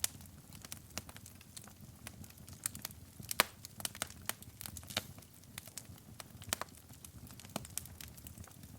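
Wood fire in a fireplace crackling, with irregular sharp pops and snaps over a low steady rumble of the flames; the loudest pop comes about three and a half seconds in.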